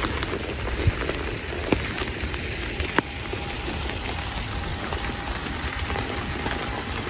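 Heavy rain falling steadily, with a few sharper drops striking close by about one, two and three seconds in.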